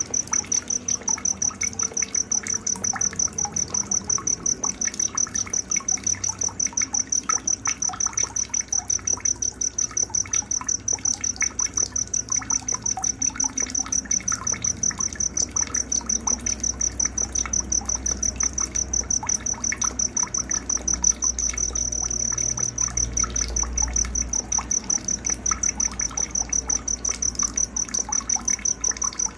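A cricket chirping nonstop in a fast, even rhythm of high-pitched pulses, about four a second, over a faint trickle of water.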